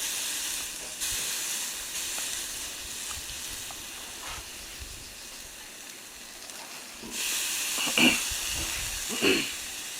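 Chicken yakitori skewers sizzling over a charcoal fire: a steady hiss that grows louder about seven seconds in, with two brief louder sounds near the end.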